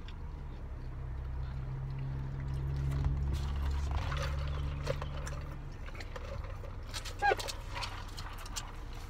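Food being chewed with the mouth closed: scattered wet lip smacks and clicks over a low steady hum that stops about six seconds in. A brief squeak comes about seven seconds in.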